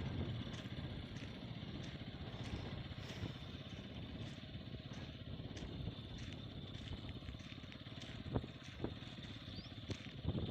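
Bajaj Pulsar 200cc single-cylinder motorcycle engine running steadily under way, with a few sharp knocks near the end.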